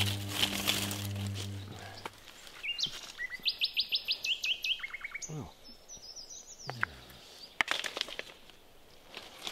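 A bird calling in quick runs of high repeated notes in the forest. Before it, a low sustained music drone fades out over the first two seconds. Near the end come a few sharp crackles of dry leaf litter.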